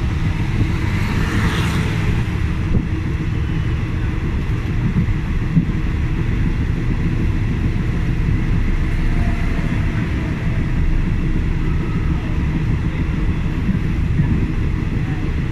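Passenger train carriage running along the track: a steady low rumble, with wind noise from the open window.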